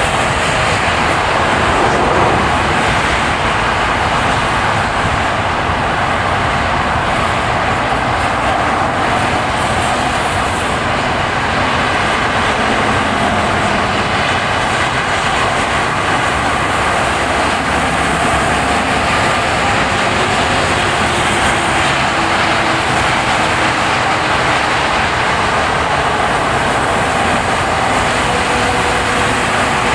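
Car driving along a road: steady, loud road and tyre noise.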